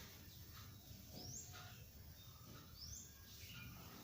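A small bird calling faintly, a short high rising chirp twice about a second and a half apart, against near silence.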